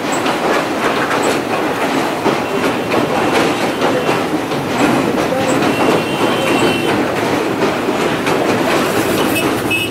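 Rameswaram Express passenger train rolling slowly over the steel rail bridge, its wheels clattering steadily on the track. A faint high wheel squeal sounds about six seconds in and again near the end.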